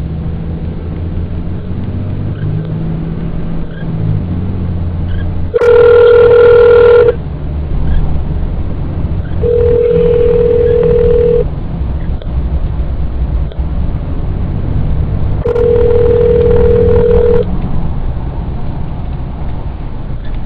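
Ringback tone of an outgoing mobile call played through the car's hands-free phone system: a steady tone about two seconds long, repeating about every six seconds, three times. Under it, the steady low rumble of the car's engine and road noise.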